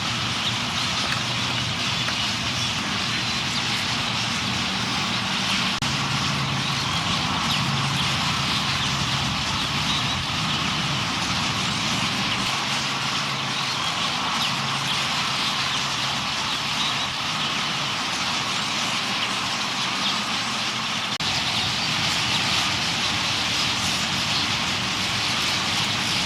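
Dense chatter of a huge flock of purple martins gathering to roost, countless overlapping chirps merging into one continuous din that grows a little louder near the end. A low, steady engine hum runs underneath.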